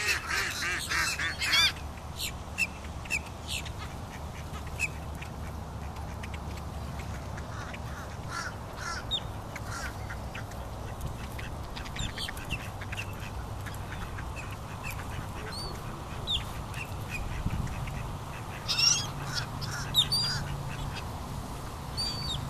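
A flock of ducks and other birds calling while being fed: a dense burst of squawking calls at the start and another near the end, with scattered short calls between, over a steady low hum.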